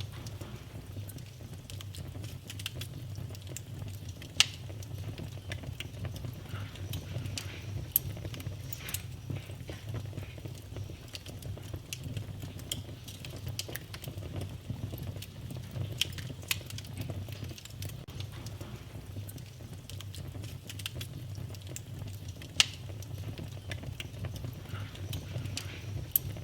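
Wood fire burning in a fireplace: a steady low rumble with frequent small crackles and a few sharper pops, the loudest about four, eight, sixteen and twenty-two seconds in.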